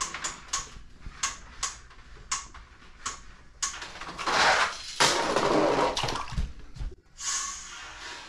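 Plastic mechanism of a toy monster-truck drop tower clicking evenly, about three times a second, as the truck is cranked up. About three and a half seconds in it gives way to a rushing, splashing noise that cuts off suddenly about seven seconds in.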